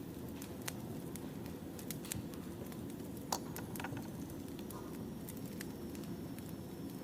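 Firewood burning and crackling: irregular sharp pops and snaps over a steady low rumble, with one louder pop a little past the middle.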